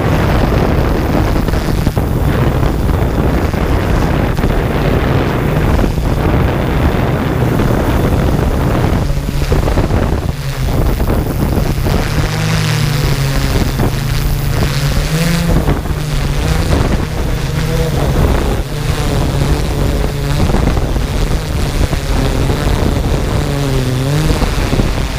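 Quadcopter drone's propellers buzzing with a steadily wavering pitch, with wind rushing over the microphone.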